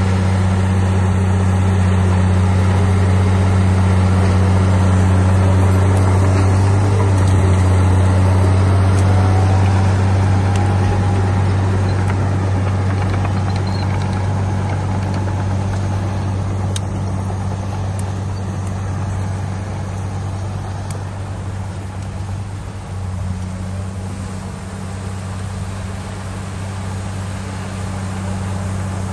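Heavy diesel engine of earthmoving machinery running steadily with a deep hum, easing off a little in the last third.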